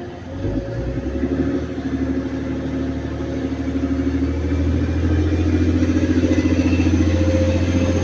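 Class 185 diesel multiple unit pulling away, its diesel engines revving up with a deep hum that builds from about half a second in and keeps growing louder.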